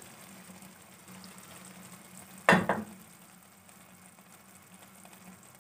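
Turnip and mutton curry sizzling faintly in oil in a non-stick wok over a gas flame. The oil has separated from the masala, the sign that the curry is done. About two and a half seconds in there is a single sharp knock.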